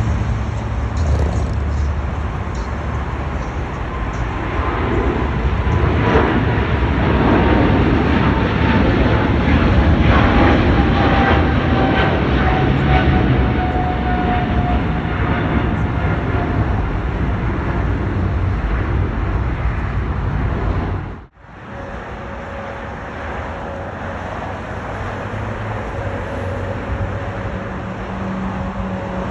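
Jet airliner going by, a loud rushing engine noise with a whine that slowly falls in pitch as it passes. About two-thirds of the way through, the sound cuts out for an instant and comes back as a steadier engine rumble.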